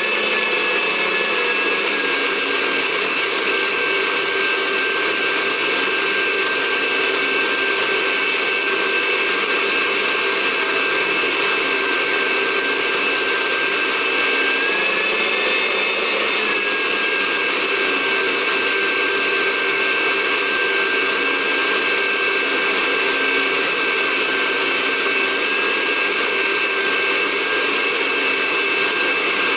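Electric blender running steadily, grinding bird feed, with a constant motor whine. About halfway through, the whine briefly drops in pitch as the motor bogs under the load, then picks back up.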